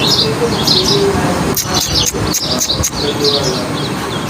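Birds chirping repeatedly over a steady rushing noise, with a few sharp clicks in the middle.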